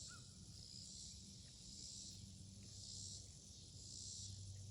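Faint chorus of insects outdoors: a high, hissing buzz that swells and fades every second or two over a low steady hum, with one short chirp right at the start.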